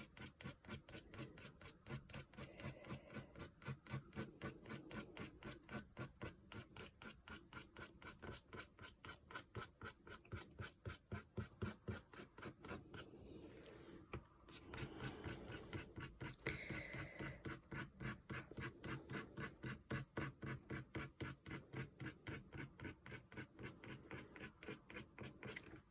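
A fine 0.4 mm ink pen scratching across watercolour paper in quick, regular strokes, a few a second, as reeds are drawn in, with a short pause about halfway through.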